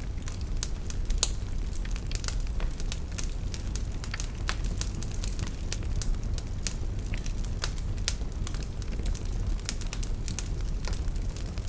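Wood fire in a fireplace burning steadily: a low rumble of the flames with irregular, frequent sharp crackles and pops from the burning logs.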